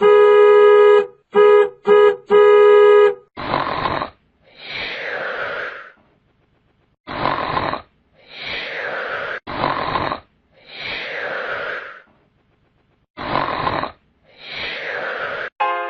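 A buzzing horn tone sounds in four blasts, long, short, short, long. Then comes a cartoon snoring sound effect: four cycles, each a short rasping snore breathed in and then a longer whistling breath out that falls in pitch.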